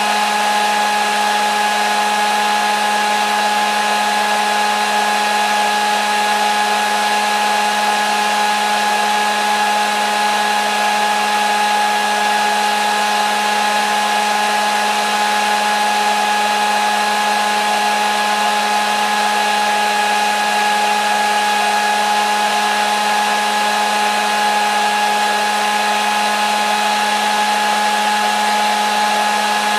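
Hair dryer running steadily: an even rush of air with a constant motor whine, unchanging throughout.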